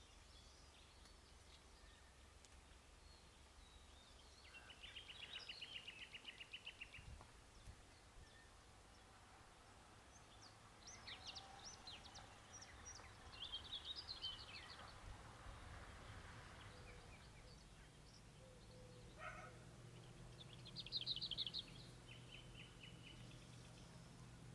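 Faint birdsong: a songbird repeats a short, rapid trilled phrase three times, several seconds apart, with a few scattered chirps over a faint low hum.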